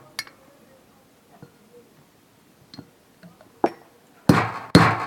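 Scattered light metal clicks and taps, then, about four seconds in, hard hammer blows start at about two a second, each ringing briefly. This is a ceiling fan's bearing being knocked out of its housing.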